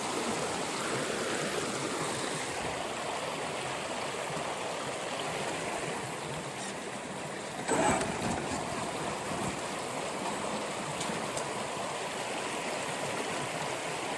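River water rushing steadily, with a brief knock a little past the middle.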